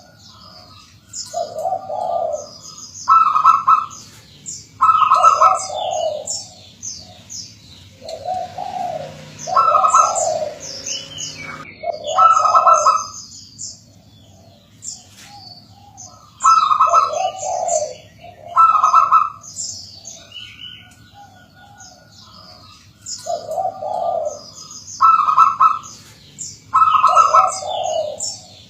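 Zebra dove (perkutut) song: four repeated cooing phrases, each a string of alternating low and higher coo notes, several seconds apart. Small birds chirp high and rapidly throughout.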